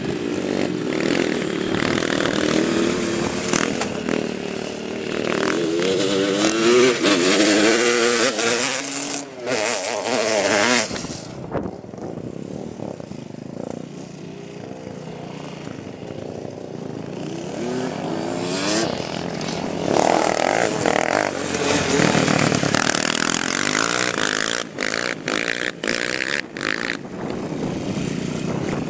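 Small off-road engine revving up and down repeatedly, the pitch swinging rapidly for several seconds at a time, dropping to a quieter, lower running in the middle, then revving again with a few quick cuts of the throttle near the end.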